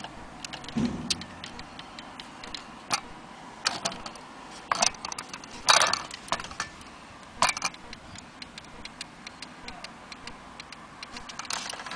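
Uneven sharp clicks and light knocks from an antique German Westminster-chime wall clock, with a duller thump about a second in; no chime is sounding.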